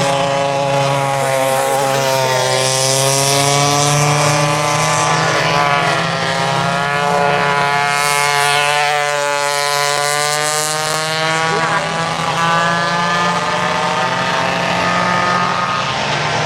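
Engines of several vintage racing go-karts running at speed on the track, their pitches rising and falling as they accelerate and pass one another.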